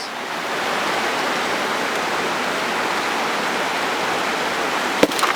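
Steady rushing of river water over rocks at a stream crossing, with a single sharp knock near the end.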